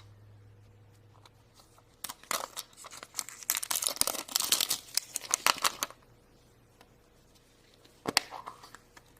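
Wrapper of a chocolate surprise heart being torn open and crinkled in a run of crackly bursts lasting about four seconds, followed a couple of seconds later by a single sharp click.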